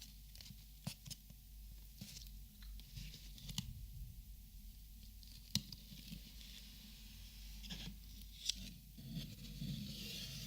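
Plastic markers being handled and sorted: scattered sharp clicks and taps, about eight of them, over soft rustling.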